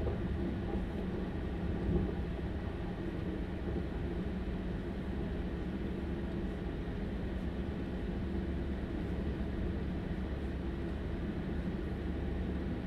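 Stadler Class 755 FLIRT bi-mode train under way on diesel, heard from inside near its power pack: a steady low engine drone over the running rumble of the wheels on the track, with one brief knock about two seconds in.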